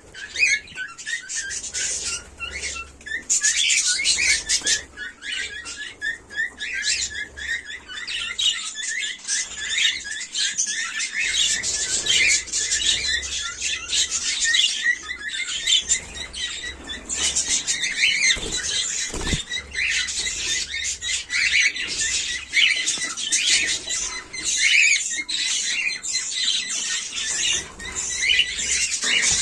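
Cockatiels chirping continuously: a steady stream of rapid, high chirps and calls.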